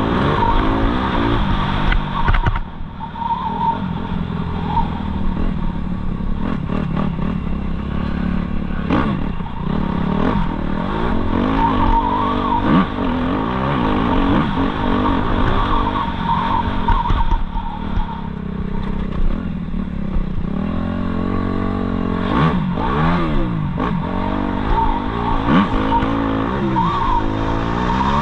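Suzuki RM-Z250 four-stroke single-cylinder motocross bike being ridden, its engine revs climbing and dropping over and over with throttle and gear changes. There is a short dip in the engine sound about two and a half seconds in.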